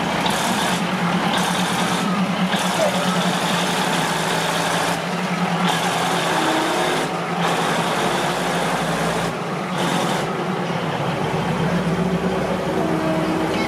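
Diesel passenger train passing slowly at arm's length: a steady low engine hum under the rumble and hiss of the coaches rolling by, the hiss dropping out briefly several times.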